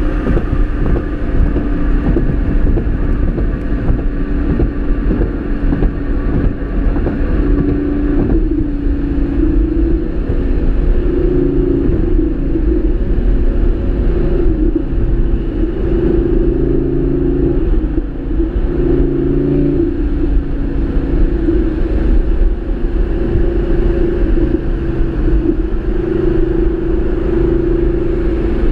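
Lamborghini Gallardo Performante Spyder's V10 engine running steadily while driving with the top down, over a low wind rumble. Its tone changes about eight seconds in, then wavers up and down with the throttle.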